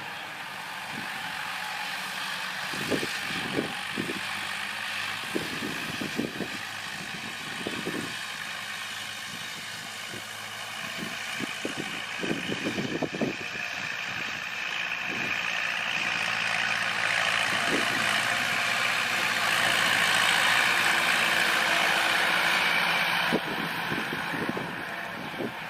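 Kubota L4708SP diesel tractor running steadily while rotary-tilling soil, with scattered short knocks in the first half. The engine grows gradually louder from about the middle on.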